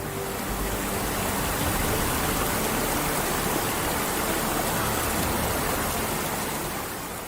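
Steady, loud rushing noise of water, easing off near the end.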